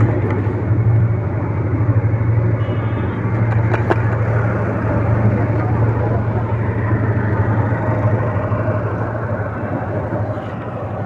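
Steady riding noise on a moving motorcycle: wind rushing over the microphone over a constant low engine and road drone.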